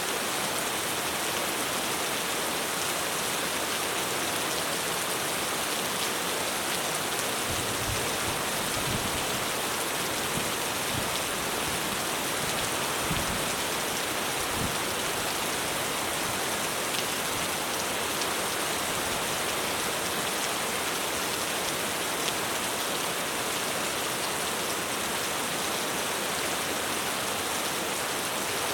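Heavy rain drumming steadily on a roof, a dense even hiss, with a low rumble of distant thunder rising and fading in the middle.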